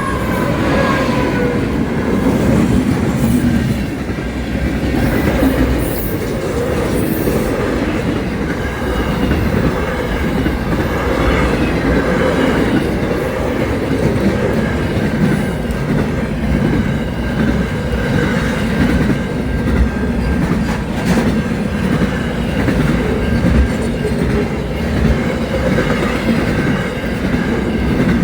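A train running on rails: continuous wheel-and-rail noise with a clickety-clack over the rail joints and faint wheel squeal. A slightly falling tone fades out in the first second.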